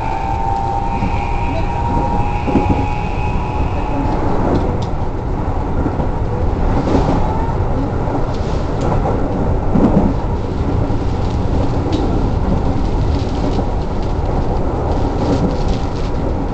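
Keikyu electric train running at speed, heard from inside the carriage: a steady, loud rumble of wheels on rail with scattered clicks and knocks. A high whine from the train fades out over the first few seconds.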